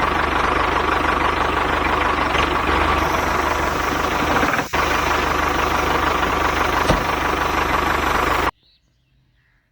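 Motor of a DIY mini tractor running steadily with a low rumble. It dips out for a moment about halfway, then cuts off abruptly near the end, leaving silence.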